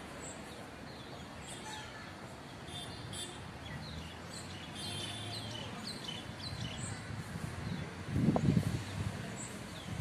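Small birds chirping and twittering in the tree canopy: many short, high chirps scattered throughout. About eight seconds in, a louder low rumble briefly rises over them.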